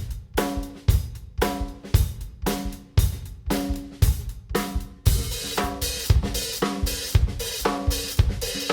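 Drum kit playing a steady beat of kick, snare and Zildjian hi-hat, about two strikes a second. About halfway through, a continuous cymbal sizzle from the hi-hat fills in between the hits.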